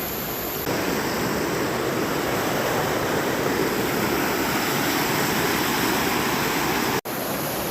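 River rapids in high water rushing: a steady dense roar of whitewater that gets louder about a second in. It cuts out for an instant near the end.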